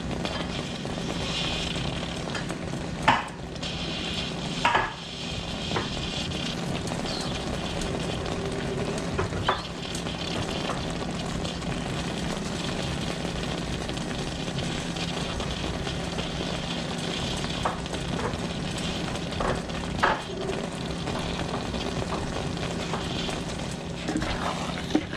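Apple pie filling, apple slices in a thickening butter and sugar sauce, cooking in a pan over the heat with a steady sizzle. A few brief knocks of a silicone spatula against the pan come through now and then.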